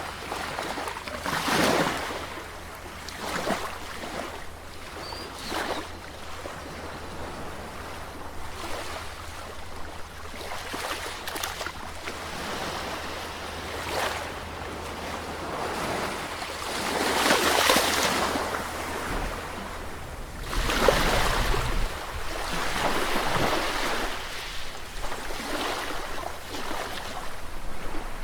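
Sea waves surging and breaking, each one a swell of rushing surf that builds and fades over a few seconds; the two biggest come about two thirds of the way through.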